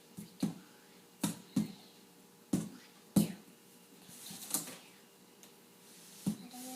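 Irregular sharp taps and knocks, about eight spread over several seconds, with a faint steady hum beneath.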